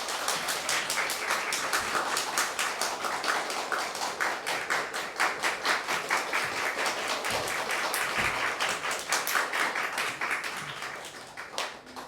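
Audience applauding, a steady crowd of hand claps that dies away near the end.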